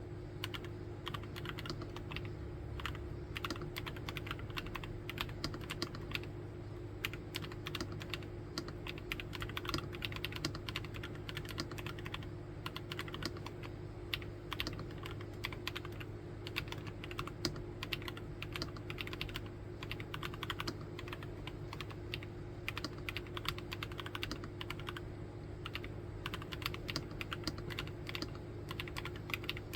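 Nuphy Field75 75% mechanical keyboard being typed on continuously, a quick, uneven run of keystroke clacks. A faint steady low hum sits underneath.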